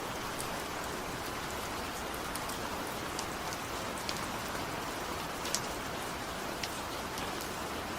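Steady rain with a continuous hiss and scattered sharp drip ticks of individual drops, one standing out about five and a half seconds in.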